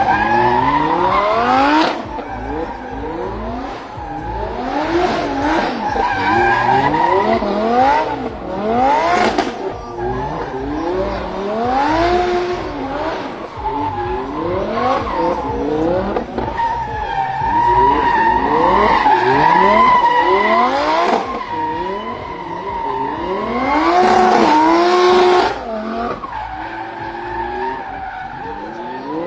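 Lamborghini Huracan drift car's engine revving hard over and over, its pitch climbing and falling again and again as the throttle is worked, with tyres squealing as the car slides.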